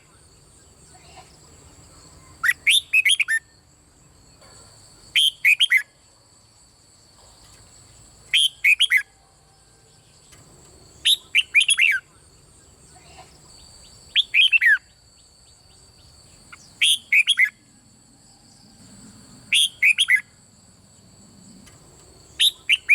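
Red-whiskered bulbul singing: short, bright phrases of a few quick falling notes, repeated about every three seconds.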